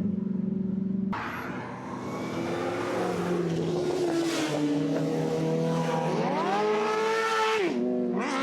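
Car engine revving: the pitch climbs steadily over a few seconds, then drops sharply, with a quick blip at the end.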